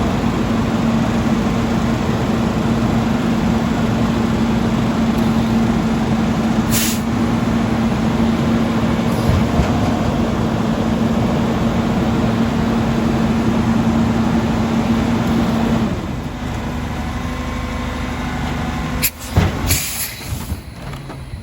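Autocar ACX recycling truck's diesel engine running steadily with a held tone, dropping back to a lower level about three-quarters of the way through. Near the end come short, sharp hisses of air brakes.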